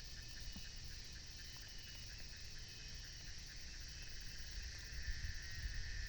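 Insects chirring steadily in a high register, with wind rumbling on the microphone, growing louder near the end.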